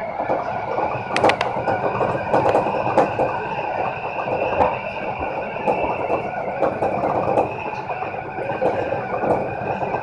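Seibu 4000 series electric train running, heard from inside the driver's cab: a steady rumble and rattle of wheels on the rails with scattered sharp clicks, the loudest about a second in, over a faint high steady whine.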